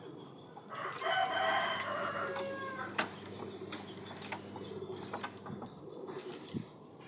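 A rooster crowing once, a single call about two seconds long that starts about a second in and sags in pitch at the end, followed by a few light clicks and taps.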